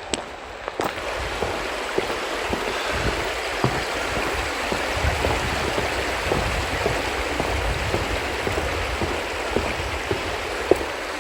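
Rushing water of a mountain stream: a steady hiss, with a few faint ticks scattered through it.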